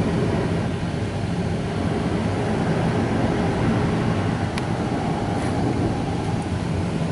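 Mark VII ChoiceWash XT friction car wash running, heard from inside the car's cabin: cloth brushes scrubbing the body and water spraying make a steady noise over a low hum from the machine. A single brief click sounds about halfway through.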